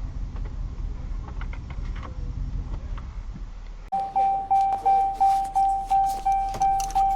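Low, steady rumble of a running vehicle engine. About four seconds in, after a cut, a single-pitched electronic car warning chime begins, dinging about twice a second, each ding fading before the next.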